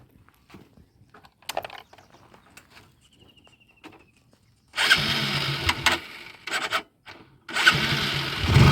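Motorcycle engine started, with a plastic bottle tied over its exhaust as a makeshift sound modification. It catches suddenly about five seconds in, runs for about a second and a half, drops out, then starts again near the end and keeps running.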